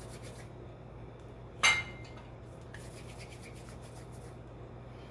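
Cookware clinking once, sharply, with a brief ring, about a second and a half in, among faint scraping and rubbing sounds, over a steady low hum.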